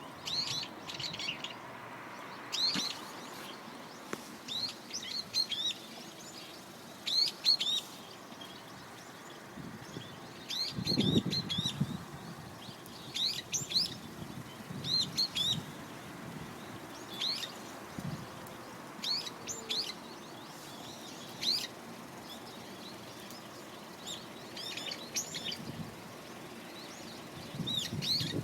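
A small bird chirping in short bursts of high, quickly falling notes, repeated every second or two. About eleven seconds in there is a brief low rumble.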